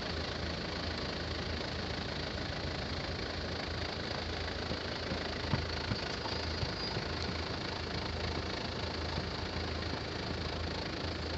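A 4x4 off-road vehicle's engine idling steadily, with a faint click about five and a half seconds in.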